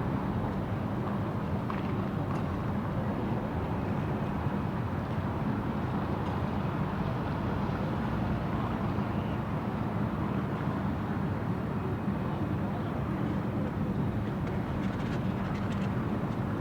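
Steady city street ambience: an even, low rumble of traffic, with a few faint ticks near the end.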